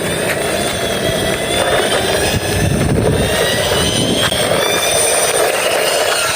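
Steady, loud engine-like rushing noise with faint whining tones that slowly rise and fall, like an aircraft engine.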